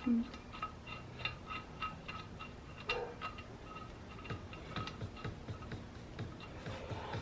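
Socket ratchet clicking in a steady run of metallic ticks, about three a second, as the head bolts are run down. A louder knock about three seconds in.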